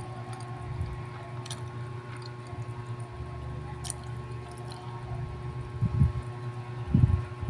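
Close-miked chewing of bread: soft, moist mouth squishes with a few small clicks, over a steady low electrical hum. A couple of heavier low thuds come near the end.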